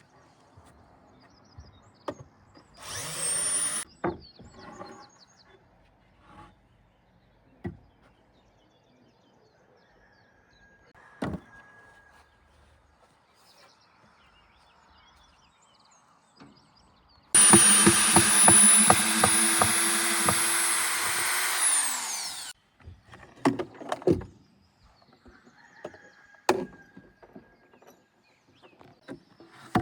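A power drill whirs briefly about three seconds in. Around the middle it runs for about five seconds with a high whine and spins down when it stops. Scattered sharp knocks of wood fall between the runs.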